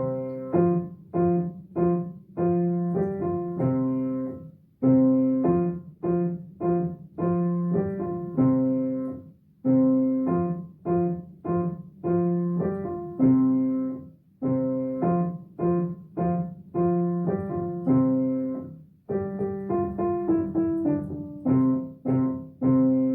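Piano playing a simple children's-song melody, one note after another in short phrases with brief pauses between them, and no singing.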